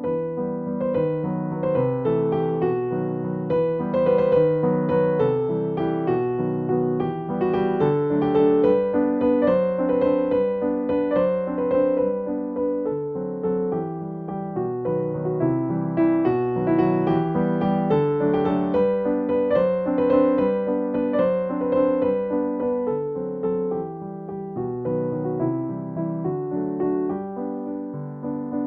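Background piano music: a gentle melody with chords played at an even pace.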